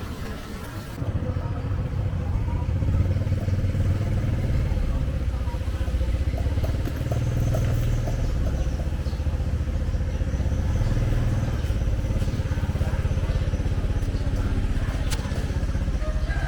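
Small motorcycle engine running steadily under way, getting louder about a second in.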